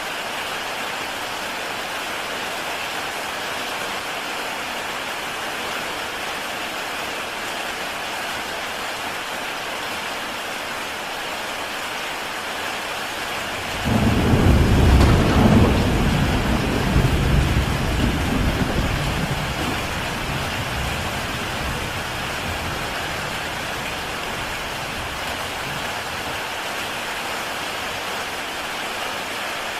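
Heavy rain falling steadily on a tile roof. About halfway through, a loud, deep rumble of thunder breaks in suddenly, rolls for a few seconds and fades away.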